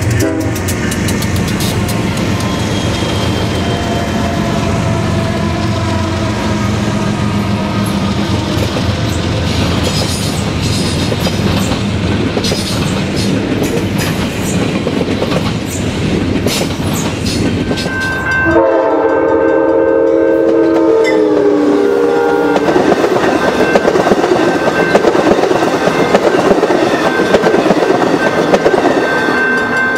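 Double-stack container freight train rolling past, a steady rumble with wheels clicking over the rail joints. About 18 seconds in, a locomotive air horn sounds a chord for about four seconds, its pitch dropping as it passes. Then an Amtrak bi-level passenger train rushes by.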